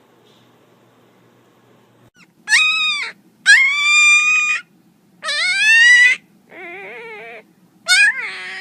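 A dog whining in five drawn-out, high-pitched cries, starting about two and a half seconds in; the fourth cry is quieter and wavers.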